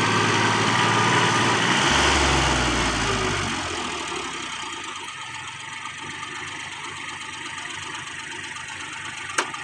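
Heavy machine's engine running, loud for the first few seconds, then dropping away to a quieter steady hum. A single sharp click near the end.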